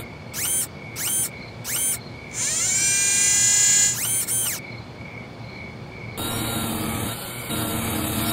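Synthesized sci-fi electronic sound effects: three short chirping beeps about two-thirds of a second apart, then a longer electronic whine that rises in pitch and holds for about a second and a half, then one more chirp, over a steady low hum.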